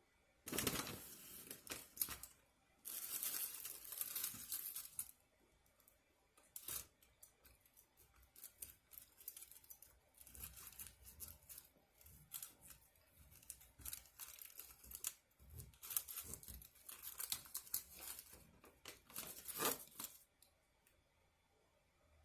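Takeout food and its paper or foil wrapping being torn and crinkled by hand, in several spells of rustling and tearing with small clicks between.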